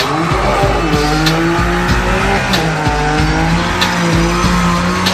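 Modified car engine held at high revs, its pitch wavering up and down, with a hip-hop track's steady beat playing underneath.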